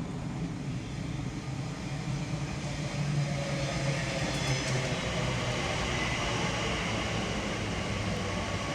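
TfL Rail Class 345 electric train pulling into the station: a steady low hum of motors and wheels on the rails that grows a little louder about three seconds in, with faint high-pitched tones around the middle.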